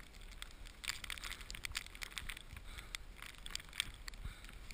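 Footsteps crunching through snow, an irregular run of short crunches, over a low steady rumble.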